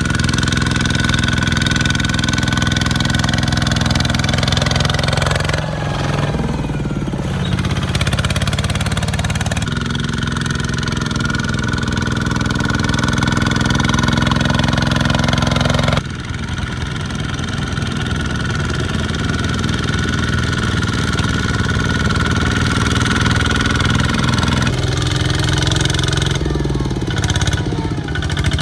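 Small farm tractor engines running steadily. The engine note changes abruptly several times, as between separate takes.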